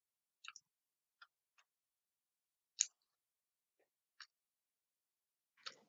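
Near silence with about six short faint clicks from eating, the loudest nearly three seconds in.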